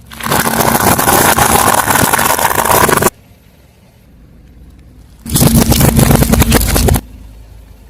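Car tyre rolling over and crushing crunchy objects: two loud stretches of dense crackling and crunching, the first about three seconds long and the second about a second and a half, each cutting off abruptly.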